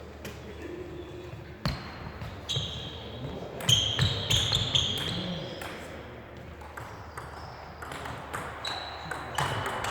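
Table tennis ball clicking off the table and bats, each hit with a short high ring: one sharp click about a second and a half in, a quick run of hits about four seconds in, and more near the end.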